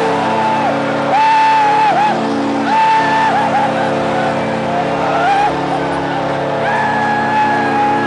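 Hockey arena crowd roaring in celebration of a clinching goal. Under it runs a steady low drone, and repeated held higher notes of about a second each rise out of it several times.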